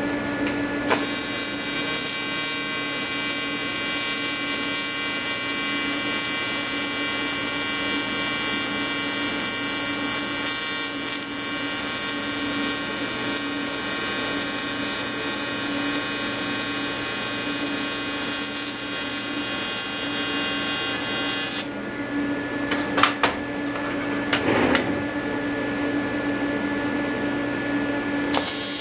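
AC TIG welding arc buzzing from an Everlast 325EXT on square wave, its AC frequency set between 100 and 150 Hz, welding with pure argon shielding. The arc strikes about a second in, buzzes steadily for about twenty seconds and cuts off suddenly. A few short sharp sounds follow, and the arc strikes again near the end over a steady low hum.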